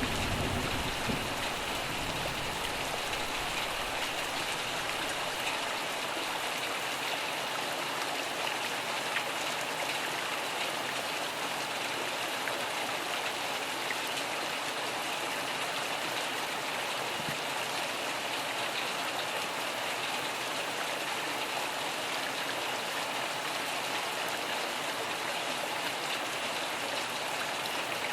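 Steady rain falling, with the low rumble of thunder dying away in the first few seconds.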